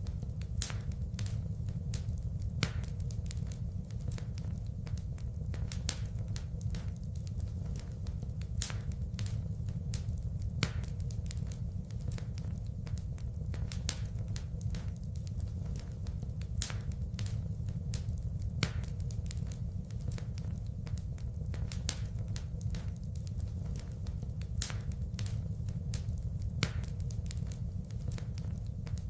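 Wood fire crackling in a fireplace: frequent sharp pops and snaps, a few louder than the rest, over a steady low rumble of burning.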